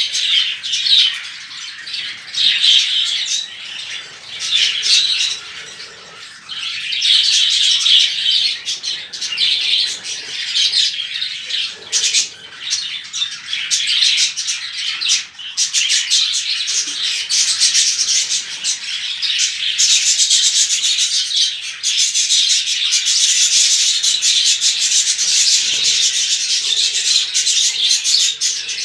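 A flock of budgerigars chattering and warbling continuously, many birds at once in a dense high twitter. It grows fuller about seven seconds in and becomes steadier and louder from about twenty seconds in.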